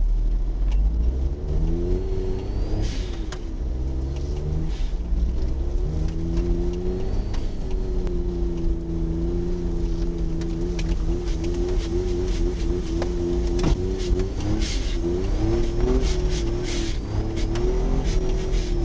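Suzuki Jimny JA11's small three-cylinder turbo engine running, heard from inside the cabin while driving on snow in four-wheel drive. Its pitch rises and falls as the engine speed changes, over a low rumble. Scattered sharp clicks and knocks come through, most of them about three-quarters of the way through.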